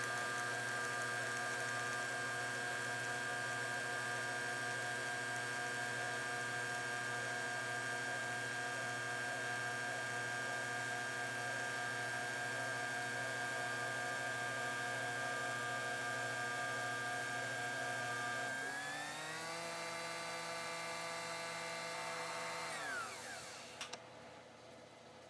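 A small electric motor running steadily. About 18 seconds in it speeds up to a higher whine, then winds down to a stop near the end, as a kitchen appliance motor does when its load lightens and it is switched off.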